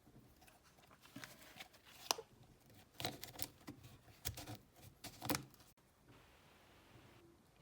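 Handling noise from small hard parts being worked by hand: scattered clicks, taps and scraping, densest between about one and five and a half seconds in, then a faint hiss.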